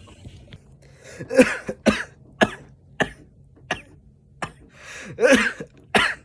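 A person coughing repeatedly: about eight separate harsh coughs, two of them longer and louder.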